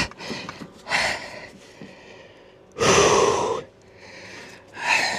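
A man breathing heavily, with a long, loud sigh about three seconds in and shorter breaths around it.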